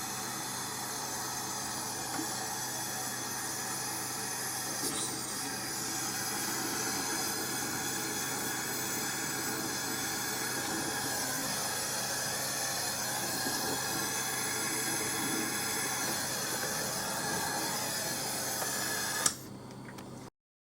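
Steady hiss over a low, even mechanical hum, cut off by a sharp click near the end.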